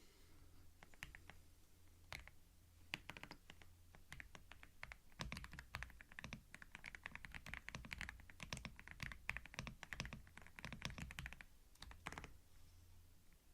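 Typing on a computer keyboard: a few scattered keystrokes, then a fast run of typing for about six seconds that stops a second or so before the end. A faint steady low hum lies underneath.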